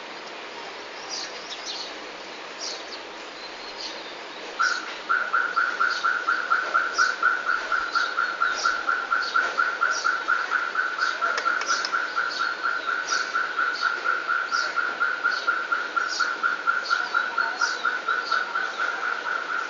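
Small birds chirping in short high notes throughout. About five seconds in, a loud, rapid, steady pulsing trill at one fixed pitch starts and carries on.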